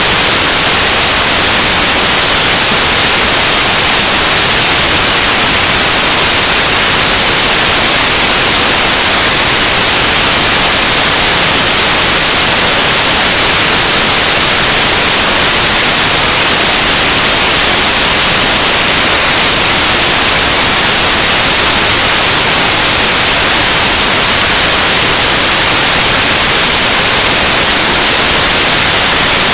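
Noise music: a loud, unchanging wall of static-like noise, heaviest in the high hiss, with no beat, pitched notes or breaks.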